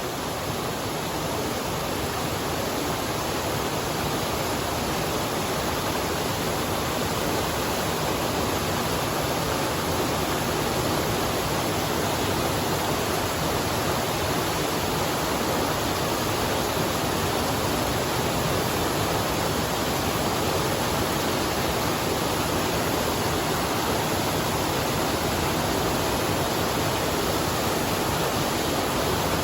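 Steady, unbroken rushing noise, even in level throughout, with no distinct events or tones.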